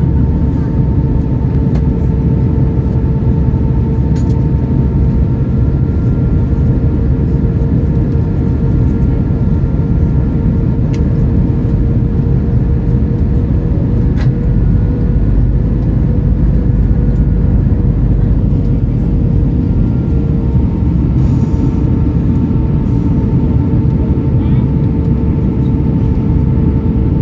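Airbus A320's IAE V2500 engines and airflow heard inside the passenger cabin in flight: a steady loud rumble with a constant droning tone and its overtones on top.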